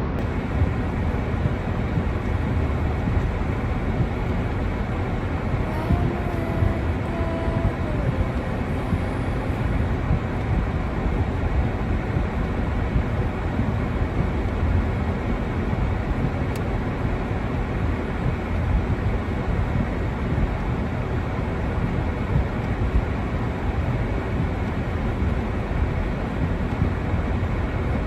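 Steady, low rumbling noise of wind in a snowstorm, with a faint brief tone about six seconds in.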